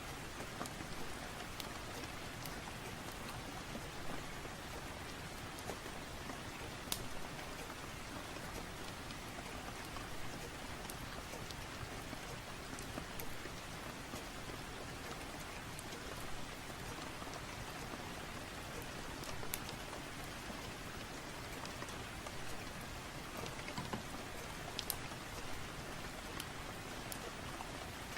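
Steady rain, an even hiss with scattered sharp clicks every second or two.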